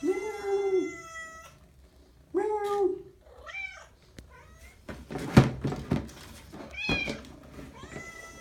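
House cats meowing repeatedly, about five drawn-out meows, which the owner takes for begging for food. A couple of sharp knocks come midway.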